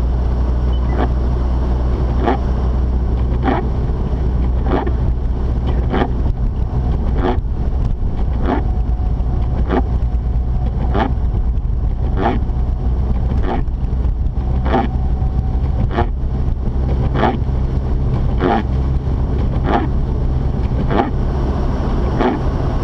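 Inside the cabin of a Mazda RX-8 with its rotary engine, a steady low drone from the engine and road. Over it, windshield wipers sweep evenly about every 1.2 seconds.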